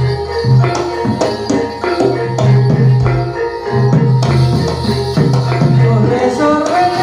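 Jathilan accompaniment music, gamelan style: hand drums and struck metal percussion with pitched struck notes over a repeating deep bass note, in a steady loud rhythm.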